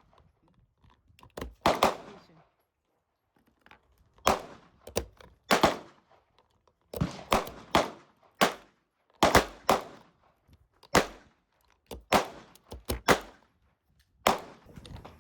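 A series of single gunshots fired at an uneven pace, some in quick pairs or threes and others a second or two apart, each with a short echo.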